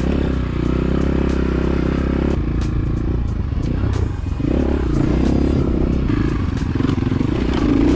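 Orion RXB250L dirt bike's 249cc air-cooled four-stroke engine running while being ridden. The engine note shifts about two seconds in and dips briefly around four seconds in, with the throttle.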